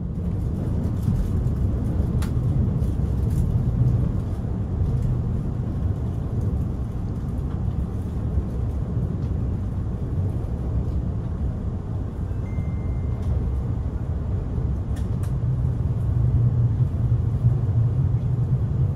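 Cabin noise of a Puyuma Express TEMU2000 tilting electric train running through an underground tunnel, heard from inside the passenger car. A steady low rumble with faint clicks and rattles grows a little louder near the end.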